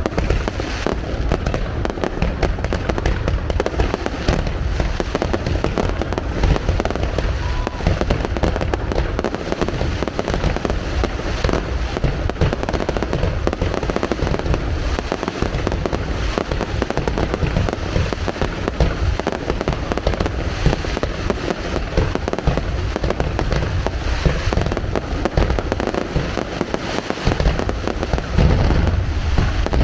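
Fireworks display going off in a dense, continuous barrage of bangs and crackles with no pause.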